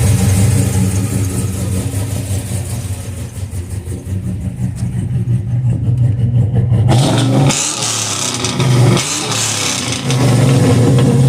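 A car engine running at a loud, steady idle. About seven seconds in the sound turns harsher, and the pitch twice dips and comes back up.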